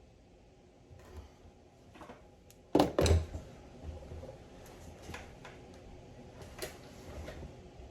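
Hard parts and tools being handled during a steering box rebuild: two loud knocks just before three seconds in, with scattered lighter clicks and taps before and after.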